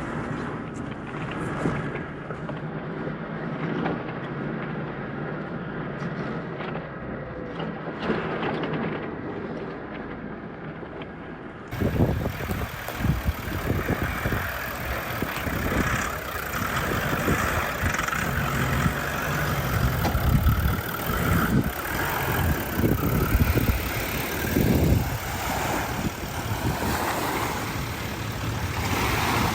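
Surf and wind buffeting the microphone at an ocean beach. It comes in abruptly about twelve seconds in, after a quieter, duller stretch, and then rises and falls in gusts.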